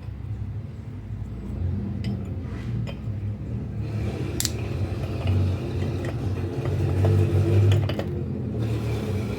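Low, uneven rumble of a motor vehicle engine running in the background, growing a little louder, with a few light metallic clicks from starter motor parts being handled, the sharpest about halfway through.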